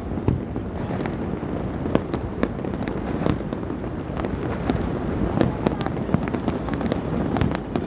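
Many fireworks and firecrackers going off at once: a continuous din of low booms and crackling, with sharp pops several times a second.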